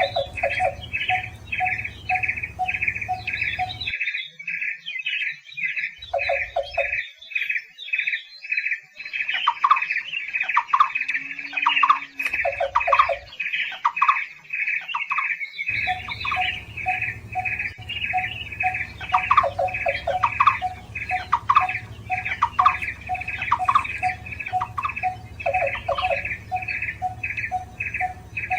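Barbets calling: a fast, even series of repeated notes, about three a second, with a second, lower repeated call alongside. The lower call and the background hum drop out about four seconds in and return about twelve seconds later, while the fast series carries on.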